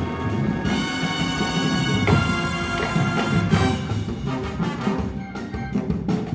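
Marching band playing a jazz-style piece: the brass section holds loud sustained chords, with drumline percussion under them.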